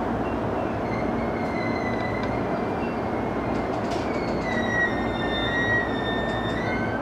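E233 series electric commuter train running steadily on the rails. High-pitched wheel squeal comes and goes over it and is strongest past the middle.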